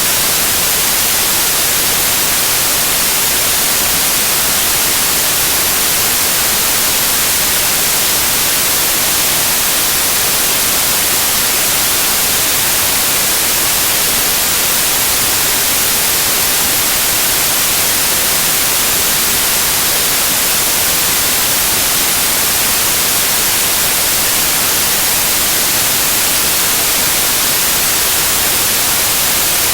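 Loud, steady white noise: an even hiss with no change and no tones, strongest in the treble.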